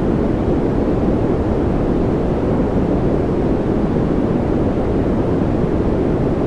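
Steady, unbroken noise for focus and relaxation, a deep even hiss weighted toward the low end with little treble, unchanging throughout.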